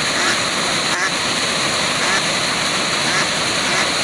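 Waterfall rushing steadily, with falling water making an even, continuous noise.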